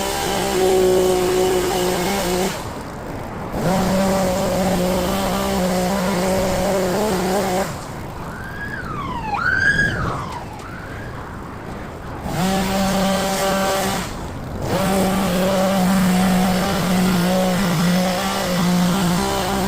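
Hedge trimmer motor running steadily, cutting out and starting again three times, with the longest stop of about four seconds in the middle. During that stop a short high tone falls and rises again.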